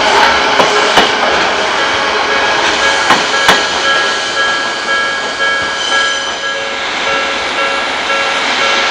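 Odakyu Odawara Line train passing over a level crossing, its wheels clacking sharply over rail joints several times in the first few seconds, over the steady ringing of the crossing's warning bell.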